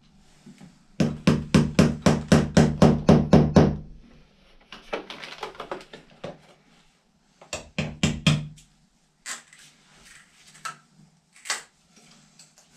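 Small hammer striking in quick succession: a fast run of about a dozen blows over roughly three seconds, then a brief scraping, a second short run of three or four blows about halfway through, and a few single knocks near the end.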